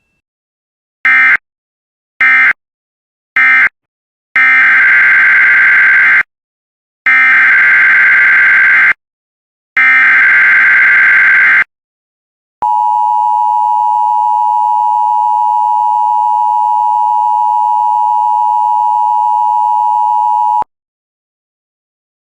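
Emergency Alert System signalling. Three short screeching digital data bursts end the previous message. Three longer SAME header bursts follow, then a steady EAS attention tone that holds for about eight seconds.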